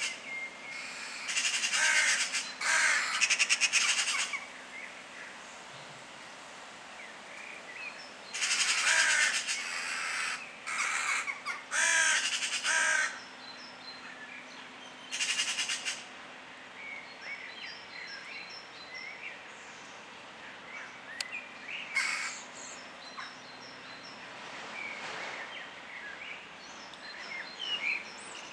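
Crows cawing in loud rough bouts of one to two seconds, several in the first half and one more after about twenty seconds, with small birds chirping faintly in between.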